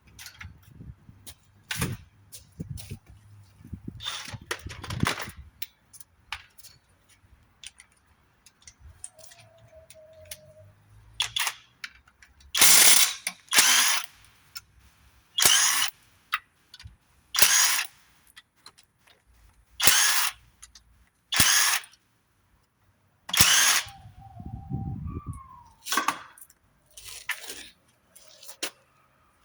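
Short bursts of a power wrench undoing bolts on a Ford 1.0 EcoBoost engine being stripped down, about seven in the second half, with metal clicks and knocks in between.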